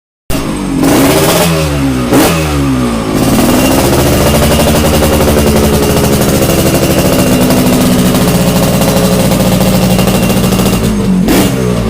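Motorcycle engine running through a chrome SR double-baffle aftermarket muffler: it comes in about a quarter second in, is blipped twice with the pitch rising and falling, then held at steady raised revs, with another blip near the end.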